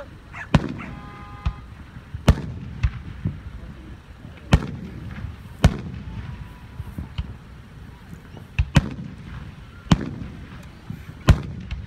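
Aerial fireworks shells bursting overhead: about ten sharp booms at irregular intervals of a second or two, over a low rumble between bursts.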